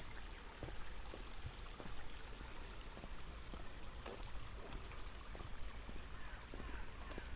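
A small stream running steadily, with scattered faint clicks over it.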